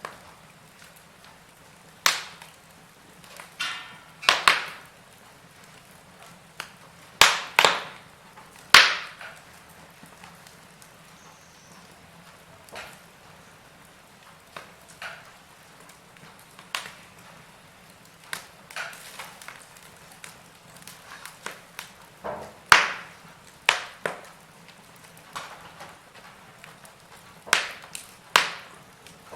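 Wood fire crackling, with irregular sharp pops over a faint steady hiss; a few pops are much louder than the rest.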